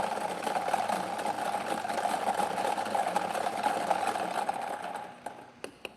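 Motorized lottery draw machine running steadily after its button is pressed, then stopping about five seconds in, followed by a quick series of clicks.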